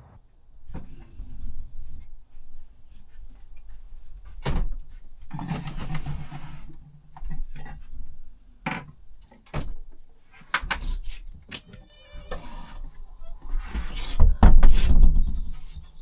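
Handling noises inside a caravan: a string of clicks and knocks, a stretch of rustling a little past five seconds in, and heavier bumping near the end, the loudest part.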